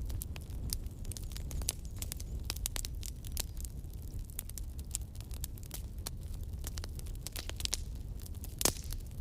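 Campfire burning: wood crackling with frequent sharp pops over a low steady rumble of the flames, and one louder pop near the end.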